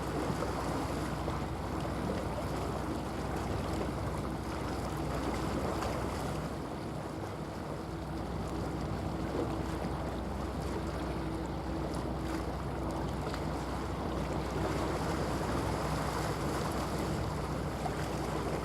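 Steady low drone of a large bulk carrier's diesel engine passing on the water, with a wash of waves and wind buffeting the microphone.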